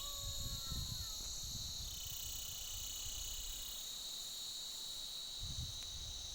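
Steady high-pitched insect chorus, its pitch stepping down and back up every couple of seconds. A few faint gliding whistles sound in the first second, and there is some low rumbling near the end.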